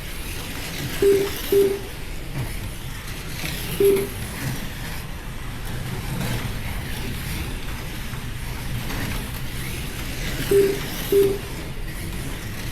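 Slot cars running laps on the track, a steady whir of small electric motors and tyres, cut by short single beeps from the lap-timing system each time a car crosses the line: five beeps, two close together about a second in, one near four seconds, and another close pair near the end.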